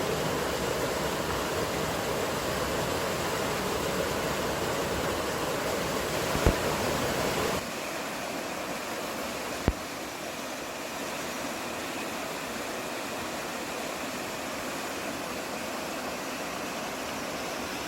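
Outdoor mountain ambience: a steady rushing wash of noise with a deep rumble under it. About seven and a half seconds in it cuts abruptly to a quieter, thinner wash. Two brief knocks come about six and a half and nine and a half seconds in.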